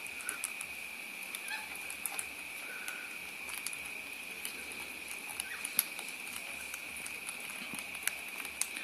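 Small backyard birds giving short, soft chirps here and there, with scattered light clicks and taps, over a steady high-pitched tone.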